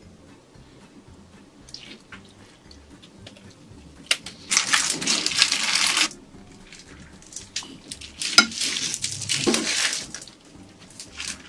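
Close-miked eating and table sounds at a shrimp meal: scattered light clicks, then two louder crackling or splashing bursts of about a second and a half each, the second starting with a sharp click.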